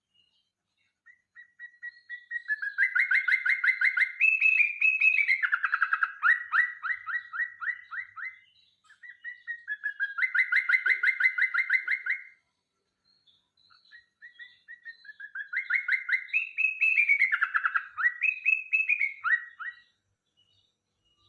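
Yellow-vented bulbul (cerukcuk) singing: three long phrases of rapid trilled notes that step up and down in pitch, with short pauses between them.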